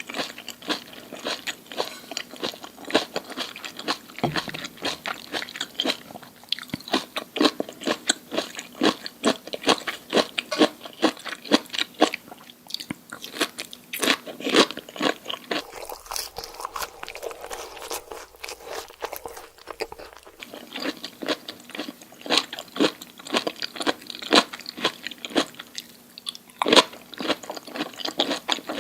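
Close-miked crunching and chewing of crisp food, with many sharp crunches in quick, uneven succession.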